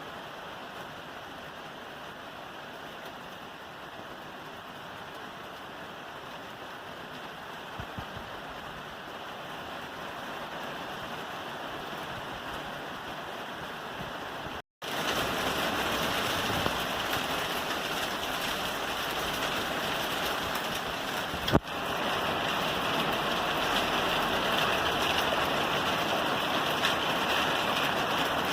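Rain falling on a roof, a steady hiss of drops. About halfway it cuts out for a split second and comes back louder, and a little later there is a single sharp click.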